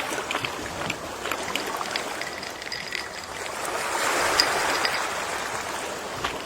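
Gentle ocean waves washing ashore as a steady rush, one swell building to its loudest about four seconds in and then ebbing. Scattered faint ticks sound over it.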